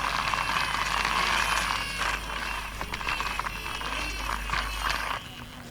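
Plastic toy packaging crinkling and rattling as a toy truck is unwrapped by hand, with many small clicks, tailing off near the end.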